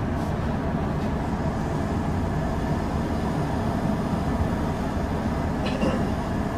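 Steady low rumble of a Kintetsu 8000 series electric train, with a few faint short high sounds near the end.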